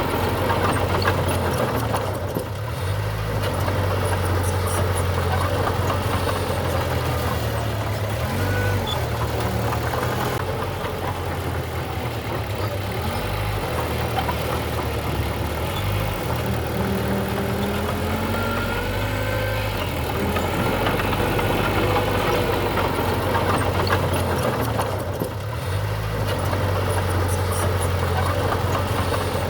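Heavy construction machine's diesel engine running steadily, with a short dip in level about two and a half seconds in and again near the end. Faint gliding whines sit above the engine sound.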